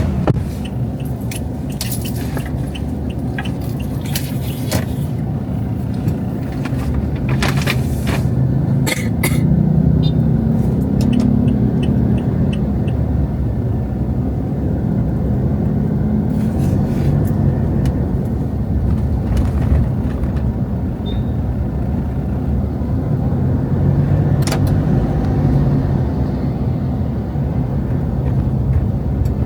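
Steady low rumble of road traffic, with a scattering of sharp clicks and taps in roughly the first ten seconds.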